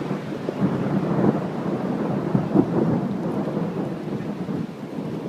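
Heavy rain falling, a dense, uneven low rumbling noise.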